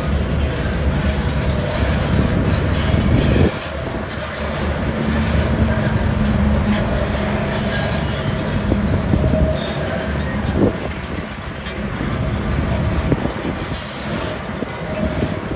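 Heavy diesel construction machinery running under load, with metallic clatter. The low engine rumble drops off sharply about three and a half seconds in, then carries on.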